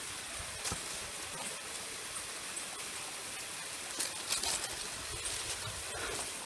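Steady outdoor hiss with a few faint clicks and brief high-pitched sounds about four seconds in; it cuts off suddenly at the end.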